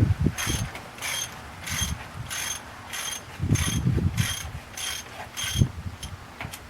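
Hand ratchet wrench clicking in about nine even strokes, roughly one every 0.6 s, as a bolt is backed out. Dull knocks of the tool against metal come between some strokes.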